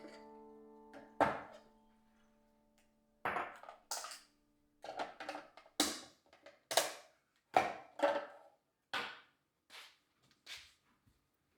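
A dozen or so irregular sharp knocks and clatters of household items being handled and set down, some with a brief ring.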